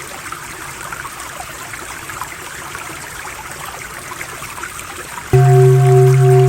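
Running water like a small stream, an even rushing with small trickling flickers. About five seconds in, a steady low droning Om tone cuts in abruptly and much louder over the water.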